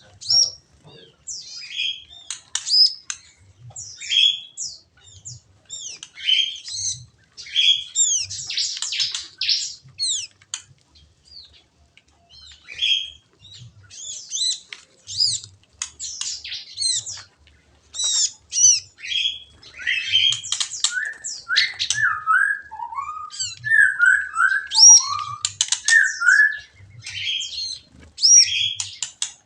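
Many small aviary birds chirping and calling over one another in quick, overlapping bursts. In the second half a run of lower, downward-sliding call notes joins the high chirping.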